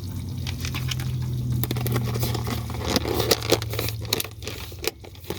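A serving spoon scraping and clicking against a pot and plate, with a wet squish of saucy food, over a steady low hum that stops about four seconds in.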